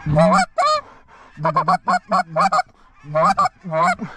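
Hand-blown goose calls honking and clucking in quick strings: one call, then a run of four, then a run of three, each breaking from a low note up to a higher honk. The geese are being called in to land.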